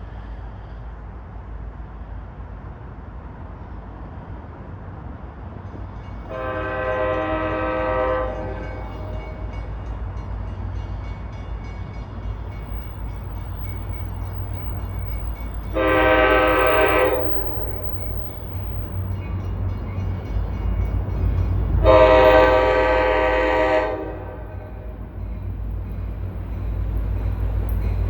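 Approaching train sounding its several-note horn in three blasts, each lasting one and a half to two seconds, over a low rumble that grows louder toward the end.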